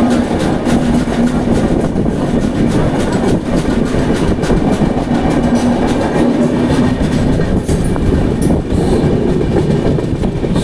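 Indian Railways Duronto Express passenger train running at speed, a steady rumble with the wheels clicking over the rail joints and a low hum that comes and goes, as it runs through a station without stopping.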